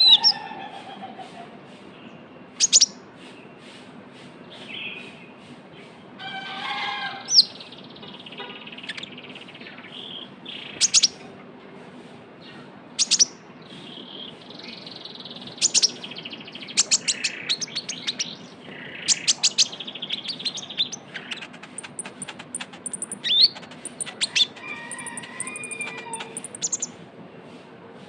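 A kolibri ninja (konin) sunbird singing a busy song: sharp high chips and quick sweeping notes broken by rapid chattering runs, with a thin, high buzzing trill in the last few seconds. It is the lively, non-stop 'trotol' singing kept as a lure to draw other birds into song.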